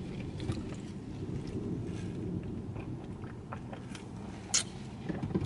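A person eating: chewing and small mouth clicks over a steady low rumble, with one sharp click about four and a half seconds in.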